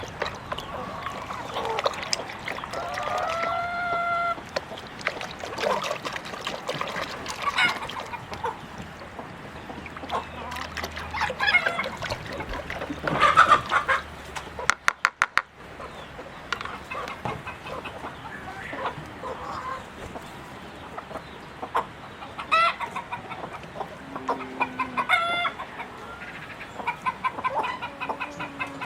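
Chickens clucking and calling in short repeated notes, with one drawn-out call about three seconds in. A brief rapid rattle of clicks comes about halfway through.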